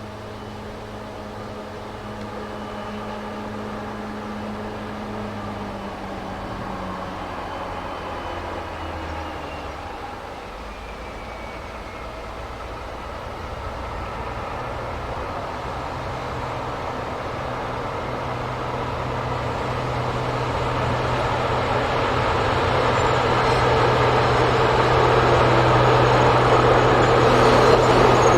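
A train approaching, growing steadily louder, with a steady low hum that drops in pitch about a quarter of the way in and deepens again around halfway.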